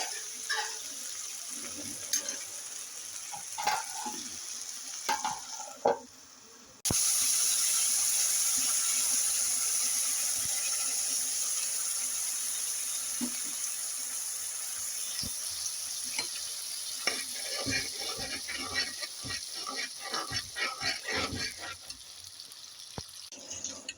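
Food frying in a pan: a few light knocks, then about seven seconds in a loud sizzle starts suddenly and slowly dies down. Near the end a utensil stirs and scrapes in the pan with quick repeated strokes.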